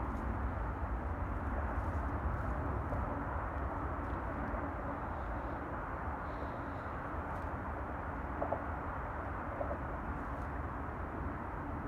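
Steady outdoor background noise with a low rumble underneath and a couple of faint short sounds about two-thirds of the way in.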